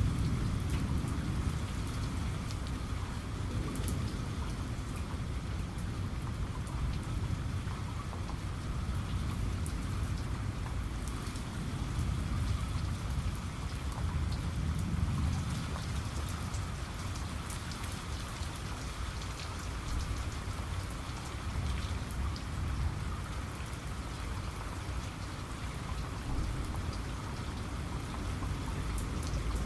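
Steady heavy rain falling on a surface, with many small sharp drop ticks over a continuous low rumble.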